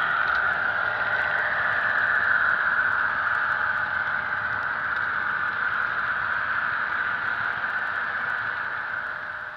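HO-scale model locomotive's Soundtraxx Tsunami sound decoder playing a running EMD diesel, heard through the model's tiny speaker as a steady hissy drone. It eases off slightly near the end.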